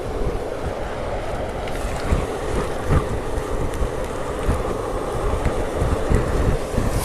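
Strong typhoon wind roaring and buffeting the microphone in gusts, a continuous rushing noise with low thumps.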